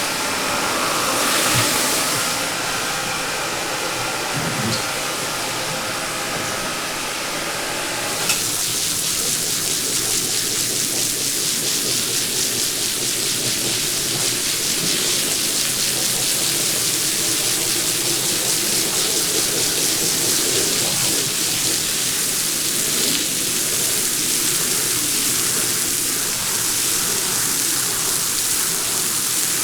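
A machine motor runs with a steady whine. About eight seconds in it gives way to a steady hiss of water spraying as a rug is rinsed.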